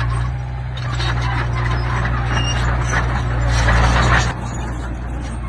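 Diesel engine of earthmoving machinery running steadily, with a grinding, rattling scrape over it that grows loudest about four seconds in and then cuts off suddenly.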